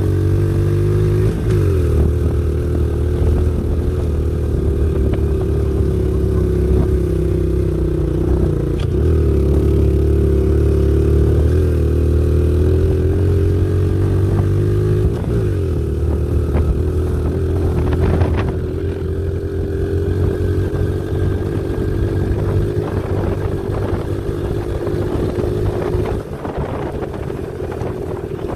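Pit bike's small single-cylinder engine running under way on a dirt trail, its pitch dipping and coming back up a few times as the throttle is eased and reopened. Short knocks and rattles from the bike over the ground come through more often in the second half.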